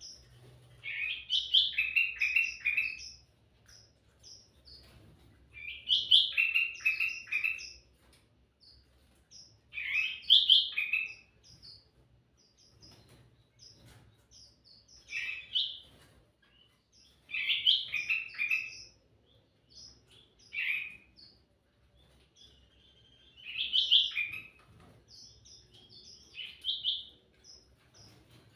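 Kutilang mas (ruby-throated bulbul) singing loud, lively song phrases of quick, jumping whistled notes, repeated every three to four seconds with short single notes in between.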